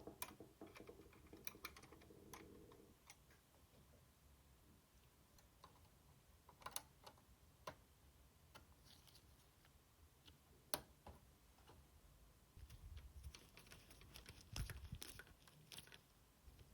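Faint, scattered clicks and taps of small tools and console parts being handled on a work surface, with a denser patch of light rubbing and knocks near the end.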